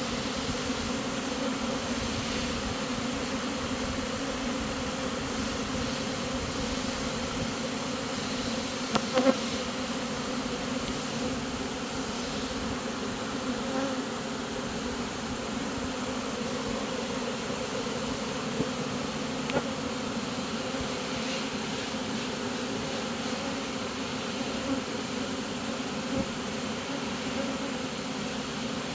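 Honey bee swarm buzzing in a steady, dense hum, with a few brief taps, the loudest about nine seconds in.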